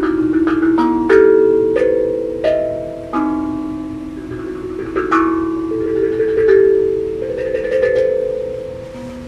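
A tuned percussion instrument played as a slow melody of single struck notes, about a dozen in all. Each note rings on and overlaps the next.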